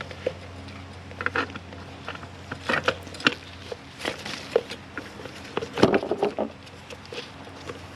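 Irregular clinks, taps and short rattles of metal strut parts and tools being handled during assembly of a front strut, with the loudest clatter about six seconds in.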